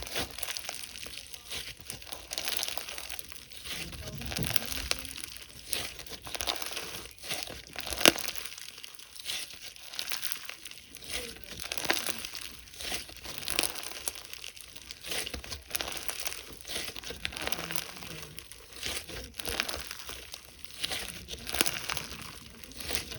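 Slime being squeezed and kneaded by hand, giving a dense, irregular run of crinkly crackles and small pops, with one sharper pop about eight seconds in.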